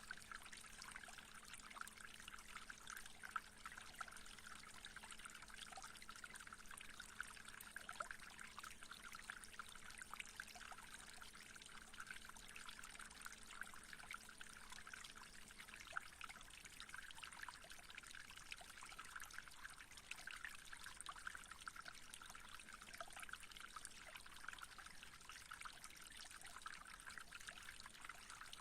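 Faint, steady trickle of running water, like a small stream. A faint low hum stops about halfway through.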